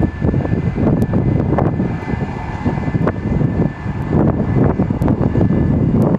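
Aircraft engines running loud: a deep, uneven rumbling roar with a faint high whine that fades about four seconds in.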